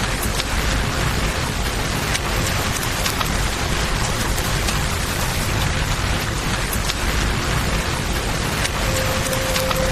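Steady rain with a flowing river beneath it, and sharp crackles of a campfire here and there. A faint held tone comes in near the end.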